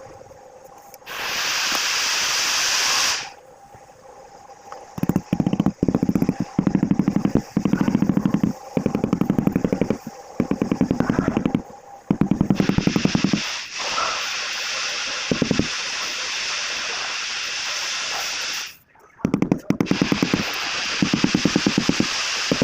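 Power tool working on tile, hammering in repeated bursts of very rapid, even blows, with stretches of steady hissing noise between them.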